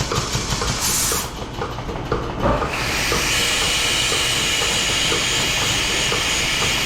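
DeLaval VMS 300 milking robot's teat-prep washer cup hissing as it squirts water, detergent and air onto a cow's teat to clean it before milking. A short sharper hiss about a second in and a brief lull, then a steady hiss from about three seconds in.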